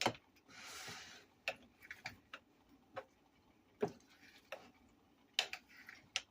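Light, irregularly spaced clicks and taps, about ten in all, with a short scraping hiss about a second in.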